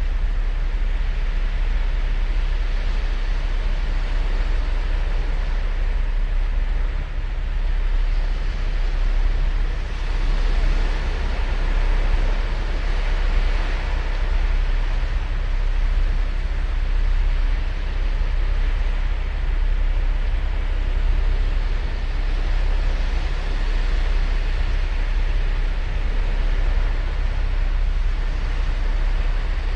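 Ocean waves breaking and washing up on a sandy beach, a steady surf noise that swells and eases every few seconds, over a low rumble that is likely wind on the microphone.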